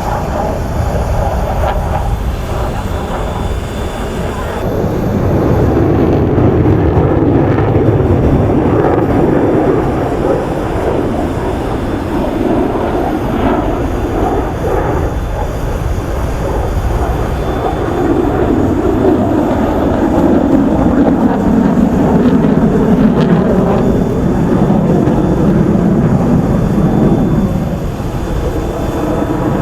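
Jet noise from Su-30SM fighters' afterburning turbofan engines flying an aerobatic display. The sound is a deep, noisy jet noise that swells about five seconds in, eases a little in the middle, swells again in the second half, and drops off near the end as the aircraft pass.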